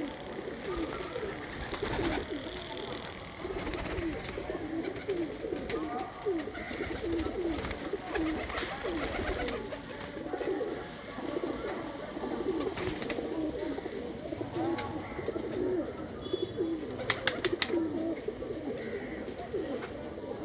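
Many breeding pigeons cooing together, with low coos overlapping throughout. A few sharp clicks come near the end.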